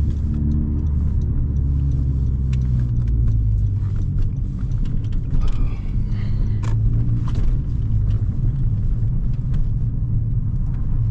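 A Honda Civic Si's 1.5-litre turbocharged four-cylinder runs at a steady cruise, heard from inside the cabin as a low drone with tyre and road rumble. Scattered clicks and knocks come through from a rough road surface.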